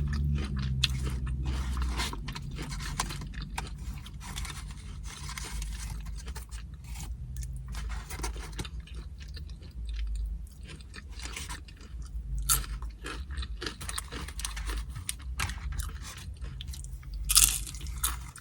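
Close-miked chewing and crunching of carne asada nachos: tortilla chips crackling between the teeth in an uneven run of crunches, with a louder crunch near the end.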